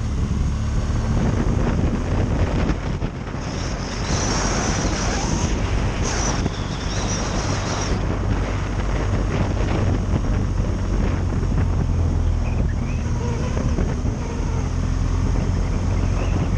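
Wind buffeting the microphone: a steady low rumble, with a brighter hiss for a few seconds from about three and a half seconds in.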